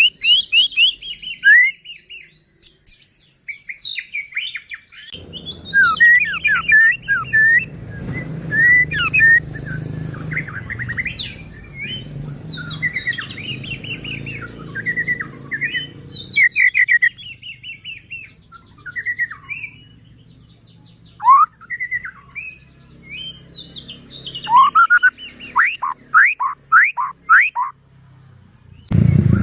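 White-rumped shama (murai batu) in full song: a long, varied run of fast whistled phrases of rising and falling notes, mixed with rapid high chattering notes.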